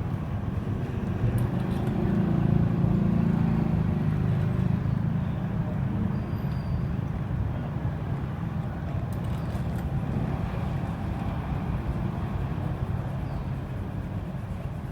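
Low, steady rumble of motor traffic, louder for a few seconds starting about two seconds in.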